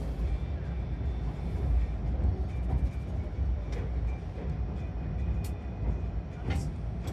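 Steady low running rumble of the Tobu Spacia X electric train, heard inside the passenger cabin, with faint thin tones above it and a few sharp clicks from the wheels and track in the second half.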